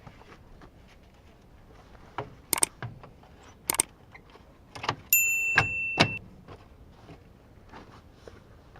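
A few sharp clicks and knocks, then a steady high-pitched electronic beep lasting about a second, with two more clicks during it.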